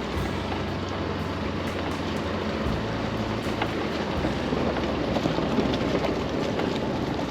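Chevy Colorado ZR2 pickup driving along a rough backcountry trail: steady engine drone and tyre noise, with scattered small clicks and knocks.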